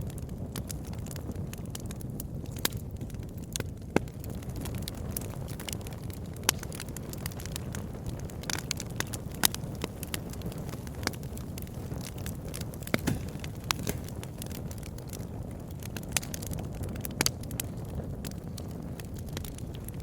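Campfire burning: a steady low rumble of flames with irregular crackles and sharp pops of burning wood.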